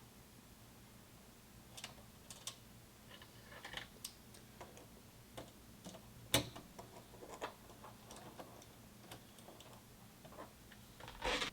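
Scattered light clicks and taps of small hard objects being handled, irregular, with one louder click about six seconds in and a short rattle of clicks near the end.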